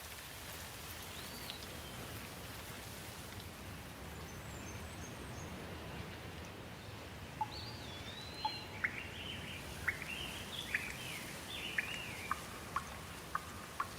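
Birdsong over a steady background hiss: a single whistled call about a second in, then from about halfway a run of quick whistled notes that rise and fall, mixed with short sharp chips.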